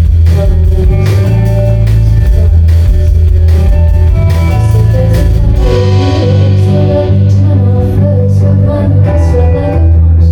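A live rock band playing loud: electric guitar, bass guitar and a drum kit, with the drum hits thinning out about halfway through.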